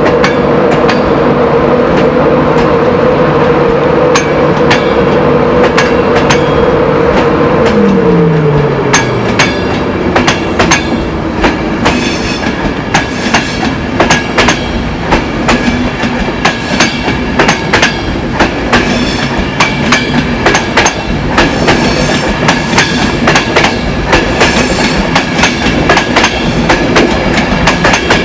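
Electric InterCity 225 train moving slowly past on the platform line: a steady electrical hum falls in pitch and fades about eight seconds in, then the wheels click in a steady run over the rail joints as the Mark 4 coaches roll by.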